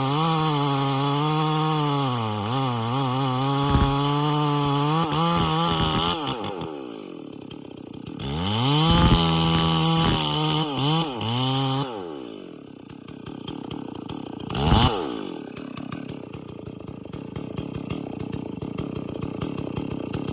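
Stihl MS440 two-stroke chainsaw running at full throttle under cutting load, its pitch wavering, then dropping to idle about six seconds in. It revs up again for a few seconds, falls back to idle, and gives one short rev blip about three quarters of the way through before idling again.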